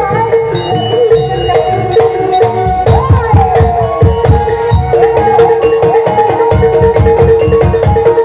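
Traditional Indonesian ensemble music: hand drums beating a dense, steady rhythm under metallophone notes, a held drone tone and a wailing melody line that slides up and down in pitch.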